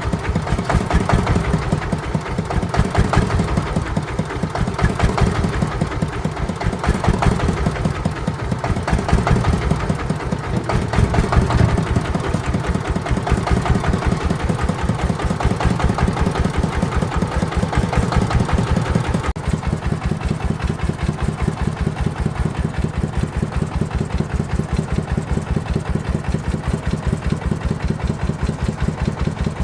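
A farm vehicle's engine running steadily with an even, pulsing beat. About two-thirds of the way through, the sound abruptly drops a little in level and becomes more uniform.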